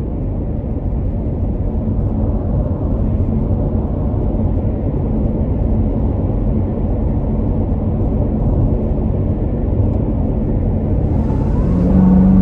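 Supercharged 6.2-litre V8 of a Chevrolet Corvette Z06 running on the highway, heard from inside the cabin along with road and tyre noise, slowly growing louder. Near the end a stronger, steady engine drone comes in.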